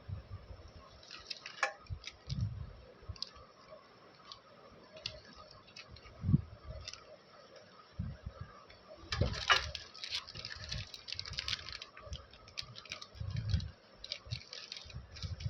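Candy wrappers and packaging being handled and opened: scattered light clicks and taps with a few soft thumps, and a longer burst of crinkling about nine seconds in.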